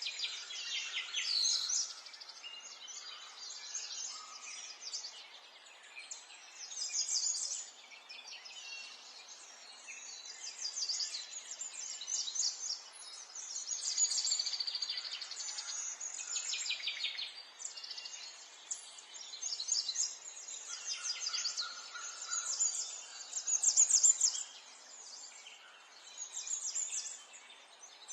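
Songbirds chirping and singing, with rapid trills and short calls overlapping one another without a break, over a faint steady hiss of outdoor background.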